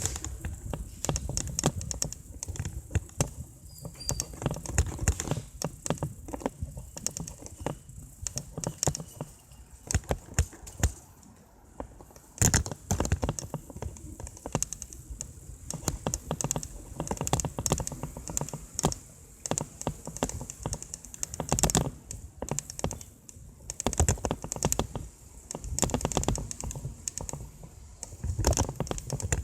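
Irregular clicking and rattling from a mountain bike being ridden along a road, with a low wind rumble on the microphone.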